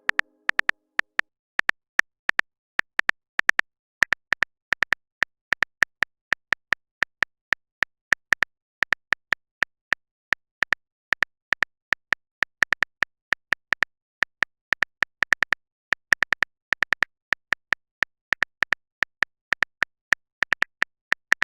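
Typing clicks of a phone keyboard sound effect: short, sharp taps at an uneven rhythm of about two to four a second, with silence between them.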